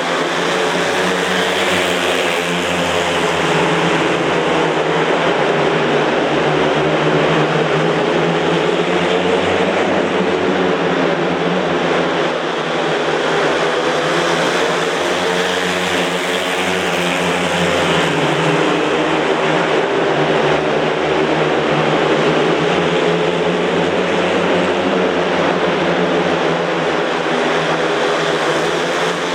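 Several speedway motorcycles, 500 cc single-cylinder methanol engines, racing flat out together in a heat, their engine notes rising and falling as they go around the track.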